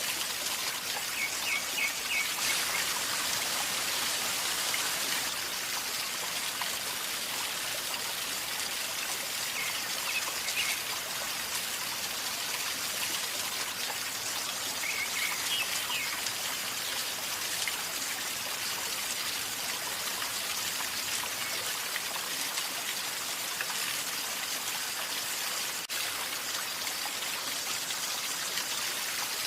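River water flowing and gurgling steadily, a constant hiss of moving water, with a few faint bird chirps.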